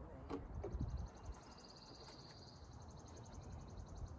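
A bird's rapid, even, high trill lasting about three and a half seconds, with a couple of light knocks in the first second.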